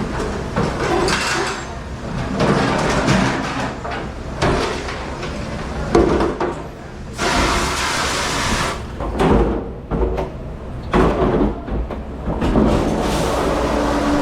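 Irregular clattering and knocking over a steady low hum, with a burst of hissing about seven seconds in that lasts over a second.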